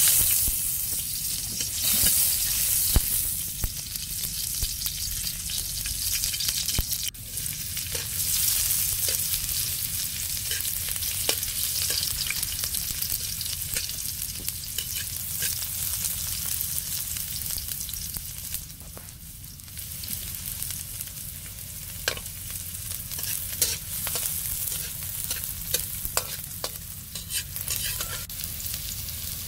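Chopped onion and garlic sizzling in hot oil in a metal wok, while a metal spatula stirs and scrapes against the pan with scattered clicks and clinks. The sizzle is steady and is loudest in the first few seconds.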